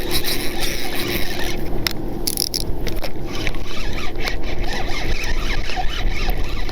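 Fishing reel being cranked in with a small catfish on the line, the reel squeaking and scraping against steady wind noise on the microphone.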